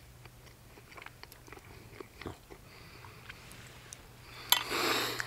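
A man chewing a mouthful of steak, with faint small mouth clicks. Near the end comes a sharp click and then a loud breathy rush of air from his mouth or nose.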